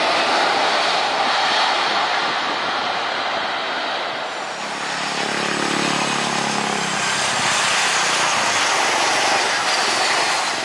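Jet airliner passing low as it comes in to land, a loud steady rush of engine noise. A low humming tone joins it for a couple of seconds around the middle.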